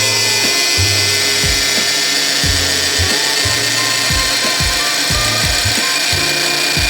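Metalworking machine running on a lathe-chuck part with a steady, high-pitched hiss. Background music with a bass line and a regular beat plays under it.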